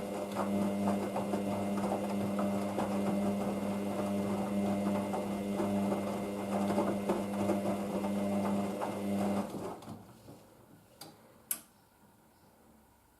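Hoover VisionDynamic DYN9144D3X washing machine running with a steady mechanical hum, which stops about nine and a half seconds in; a sharp click follows about two seconds later.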